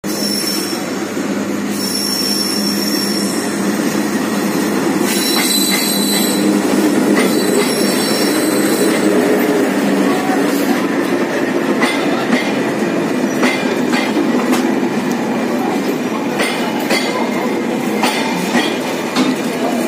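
A broad-gauge diesel-hauled passenger train of PT INKA coaches pulls into a station platform with a steady rumble. A high-pitched wheel squeal runs through the first half. From about ten seconds in, a regular run of sharp wheel clacks over the rail joints comes as the coaches pass close by.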